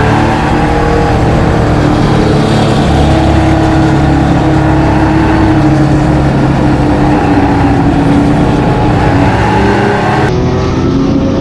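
Corvair race car's air-cooled flat-six engine running hard at speed, its pitch wavering slightly as it holds high revs. The sound changes abruptly near the end.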